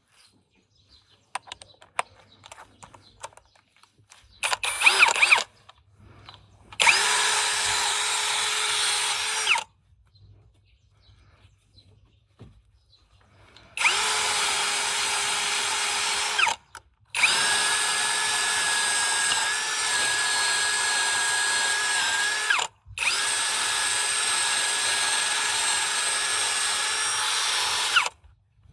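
Hand-held electric power drill running at a steady speed in four long runs of a few seconds each, with short stops between them. Before the runs there are light clicks of handling and one short loud burst about four seconds in.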